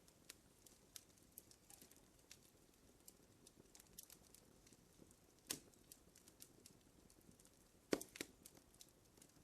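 Wood fire crackling quietly: irregular small ticks and snaps, with a louder pop about five and a half seconds in and the loudest snap near eight seconds.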